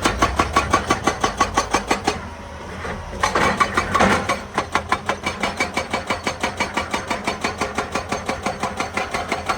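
Hydraulic breaker hammer on a Hitachi EX200 excavator pounding rock in a rapid, steady series of blows, about eight a second. The hammering pauses for about a second roughly two seconds in, then picks up again.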